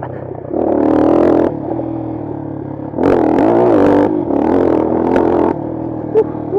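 Bashan Brozz 250 dual-sport motorcycle's single-cylinder engine running, with the throttle opened in two louder surges, about half a second in and again about three seconds in, easing off between and near the end.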